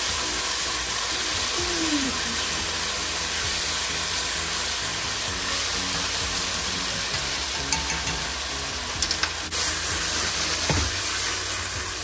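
Sliced beef and onions sizzling steadily in a hot wok with soy and oyster sauce, stirred with chopsticks. A few light clicks and a soft knock near the end.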